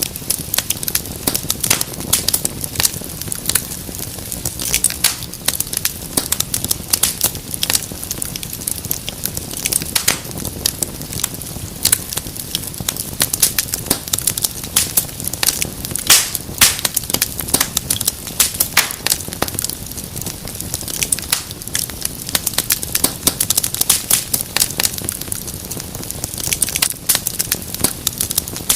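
Wood fire in a fireplace crackling continuously: dense, irregular sharp crackles and pops over a steady low rush of the flames.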